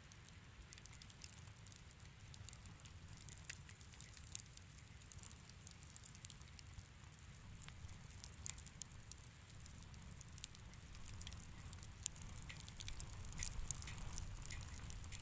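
Wood fire crackling in a fireplace: irregular small snaps and pops over a low steady rumble of the flames, getting a little busier toward the end, with one sharper pop about twelve seconds in.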